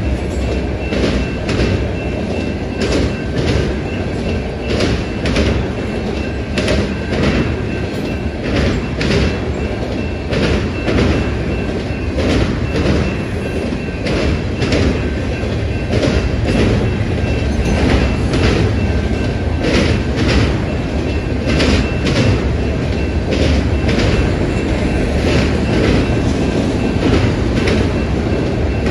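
Freight train of enclosed autorack cars rolling past: a steady low rumble of steel wheels on rail, with repeated clicks and clacks as the wheels cross rail joints and a faint high squeal under it.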